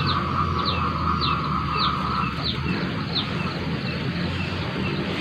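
Small bird chirping repeatedly, short falling notes about twice a second, over a steady low hum. A steady mid-pitched tone fades out about halfway through.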